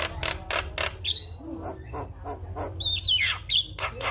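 Javan myna calling: a rapid run of harsh, rasping clicks with squeaky whistles that slide up and down, about a second in and again around three seconds.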